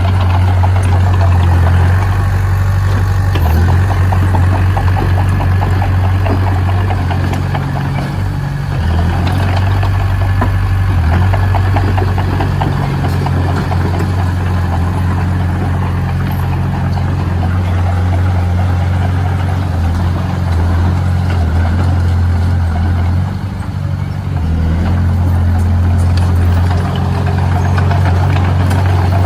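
Heavy construction machine's diesel engine running steadily with a strong low drone, easing off briefly twice.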